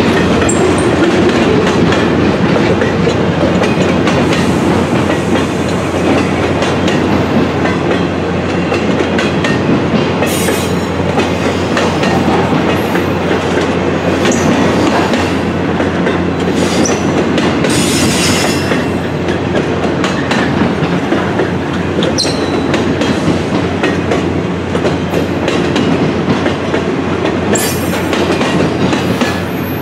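Double-stack container freight train rolling past: a steady, loud rumble and clatter of the well cars' wheels on the rails, with short high-pitched wheel squeals several times.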